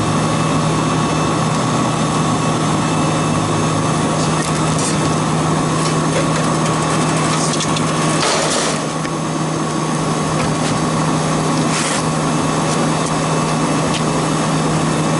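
A motor-driven machine running with a steady, even hum throughout. A brief noise cuts in about eight seconds in, and a shorter one about twelve seconds in.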